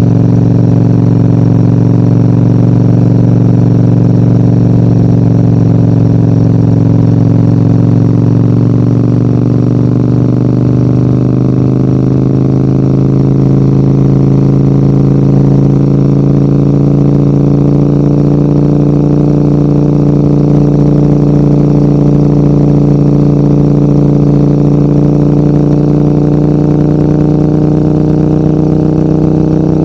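Large adventure motorcycle's engine pulling uphill under load, its pitch easing slightly about a third of the way in and then rising slowly and steadily as the bike gathers speed.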